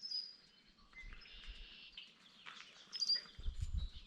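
Several wild songbirds singing and calling at once: short high chirps, a buzzy trill about a second in, and a sharp high note about three seconds in. A low rumble comes in near the end.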